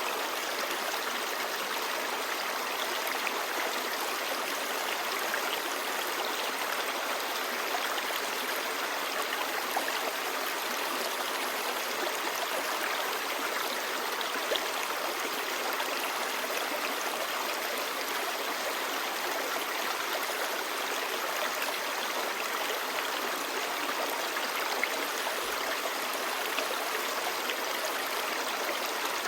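Clear stream babbling over rocks: a steady, even rush of water with small splashes and drips scattered through it.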